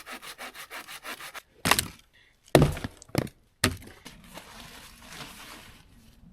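Hand saw cutting wood with quick even strokes, about five a second, stopping about a second and a half in. Then come four loud sharp cracks of wood breaking, followed by a few seconds of softer scraping.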